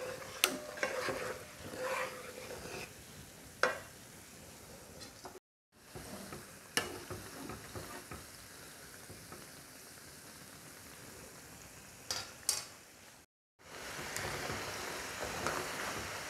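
A wooden spatula stirring and scraping jaggery syrup cooked to two-thread stage in a non-stick pan, then gavvalu (small shell-shaped wheat dough snacks) sizzling as they deep-fry in oil, with a few clinks of a wire strainer against the pan. The sizzling gets louder over the last few seconds.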